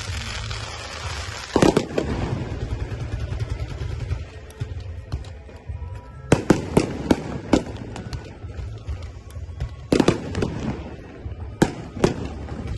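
Fireworks going off: sharp bangs, one about a second and a half in, a rapid run of four or five around the middle and several more near the end, with crackling between them.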